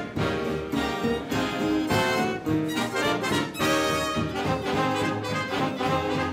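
Swing-era big band playing an up-tempo arrangement, with trumpets and trombones carrying the melody over saxophones and a steady rhythm section.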